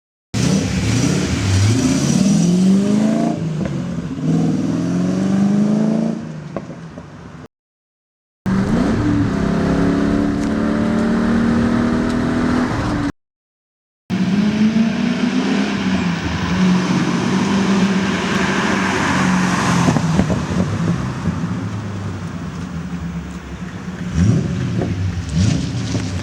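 TVR Tasmin 350i's 3.5-litre Rover V8 engine running and being revved. The revs climb repeatedly and fade off in the first stretch, climb and then hold steady in the second, and hold steady in the third with two quick throttle blips near the end. It cuts to dead silence twice, for about a second each time.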